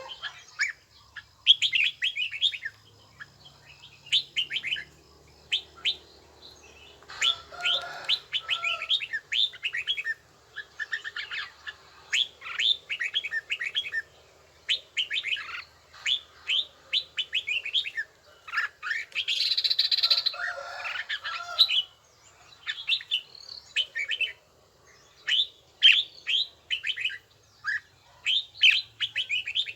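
Red-whiskered bulbul song: short, quick phrases of clear whistled notes, repeated one after another, with a louder, harsher burst about two-thirds of the way through.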